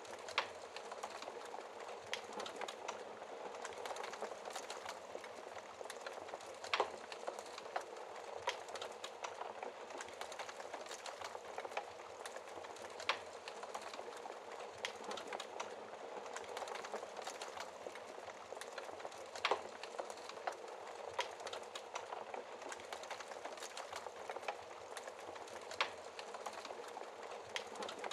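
Wood fire crackling in a fireplace: a steady hiss of flames with dense small crackles and a sharper, louder pop about every six seconds.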